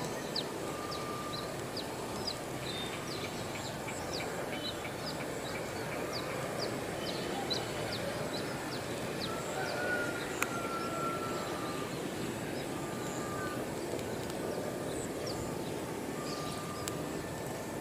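Steady low outdoor rumble of a diesel train still far off on its approach, with many short bird chirps over it and a single sharp click about ten seconds in.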